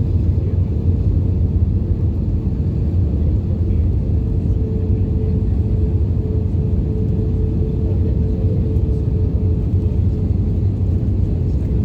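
Cabin noise inside an Airbus A320-232 in flight: a steady deep rumble of engines and airflow with a constant hum running through it.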